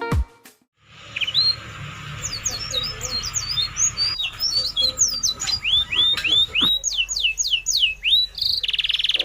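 Birds chirping: many quick, repeated chirps sweeping up and down in pitch, over a steady hiss for the first few seconds. A fast buzzy trill joins near the end.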